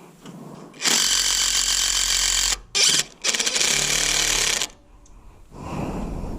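Power driver running in three bursts, a long one, a short one and another long one, as it drives screws through 1x6 stringers into the rafters.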